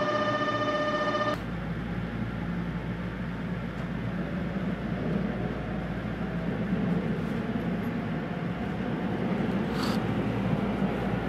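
A steady held electronic tone that cuts off about a second in, then the steady rumble of a train running, heard from inside the car, with a single short knock near the end.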